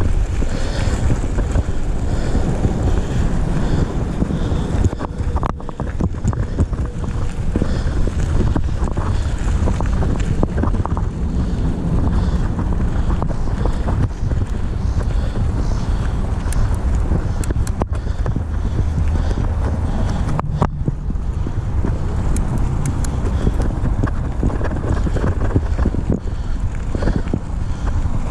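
Wind buffeting the microphone: a steady, loud low rumble, with a few faint clicks and knocks.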